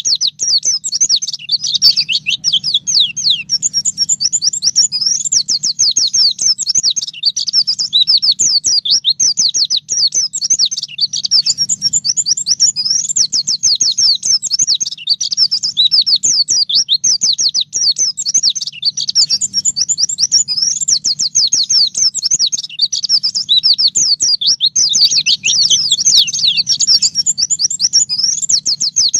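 A white-eye (pleci) singing continuously in a fast, high-pitched stream of rapid chirps and trills. It runs as quick down-slurred notes with only short breaks, the 'ngalas nembak' wild-style song with canary-like runs.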